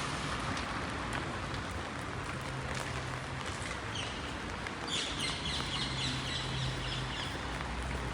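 Steady hiss of rain, with a bird calling in a quick run of high chirping notes about five seconds in that lasts about two seconds.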